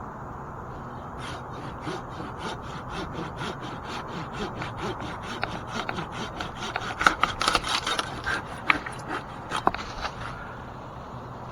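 Hand saw cutting through ash wood with steady back-and-forth strokes, about three a second, growing louder and rougher in the second half and stopping about ten seconds in.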